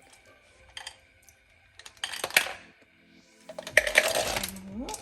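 Hard chocolate melts poured into a measuring cup, clattering as a rattle of many small clicks in two pours, a short one about two seconds in and a longer, louder one from about three and a half seconds.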